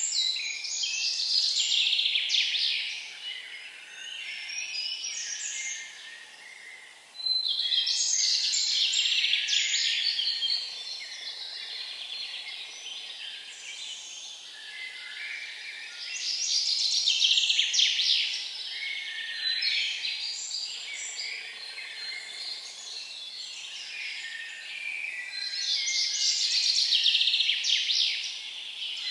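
Songbird singing high, busy phrases of two to three seconds, about every nine seconds, with quieter bird chirping between them.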